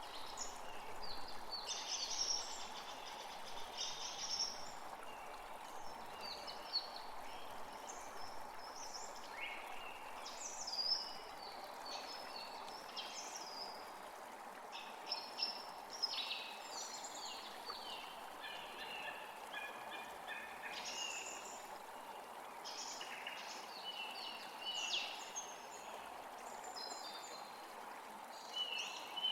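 Several birds chirping and trilling in many short, quick calls throughout, over a steady rushing background of running water.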